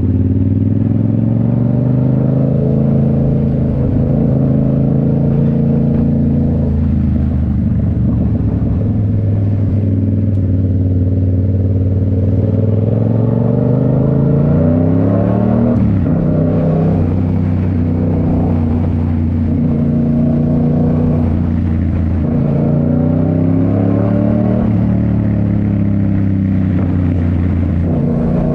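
2019 Yamaha MT-07's parallel-twin engine through a Toce full exhaust, running while riding. The note holds steady for long stretches, climbs in pitch under acceleration, drops suddenly about halfway through, then rises and falls again with the throttle.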